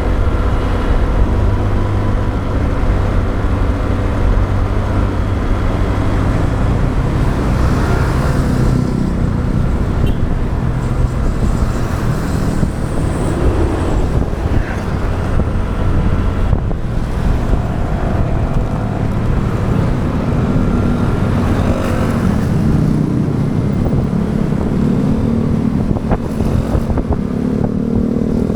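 Motorbike ride heard from the rider's action camera: a heavy wind rumble on the microphone over the bike's running engine and passing traffic. The engine pitch rises over the last few seconds.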